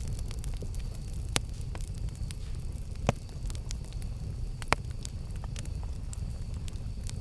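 Campfire burning: a steady low rumble of flames with sharp wood crackles and pops scattered through, three louder pops standing out about a second and a half apart.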